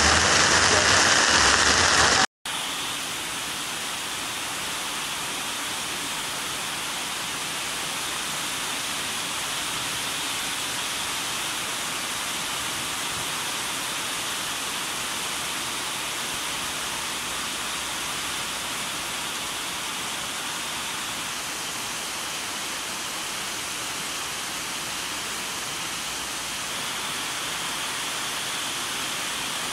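Heavy rain pouring down in a steady, even hiss. A short, louder stretch of noise cuts off about two seconds in, before the rain.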